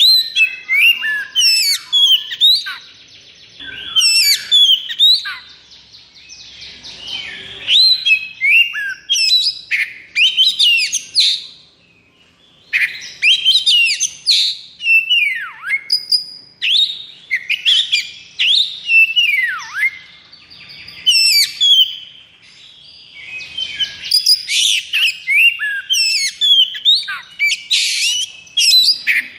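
Oriental magpie-robin singing: rapid phrases of varied clear whistles, quick trills and steep downward-sweeping notes, delivered in bursts a few seconds long with brief pauses between them.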